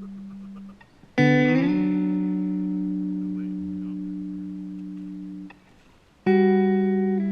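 Background music: slow electric guitar chords, each struck and left to ring out and fade over several seconds, with a short slide in pitch just after the first chord. A new chord comes in about a second in and another near the end.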